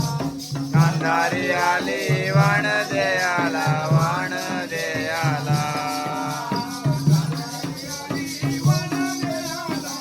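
Jakhadi folk song: a singer holding long, wavering melodic notes over a regular hand-drum beat, with constant high jingling percussion. The singing is long and unbroken in the first half, then turns into shorter phrases.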